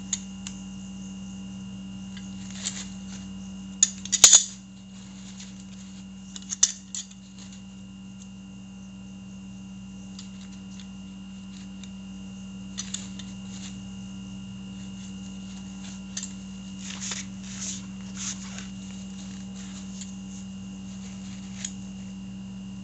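Scattered light clicks and scrapes of hand tools and parts being handled during motorcycle front brake work, the sharpest a quick cluster of clicks about four seconds in, over a steady low hum.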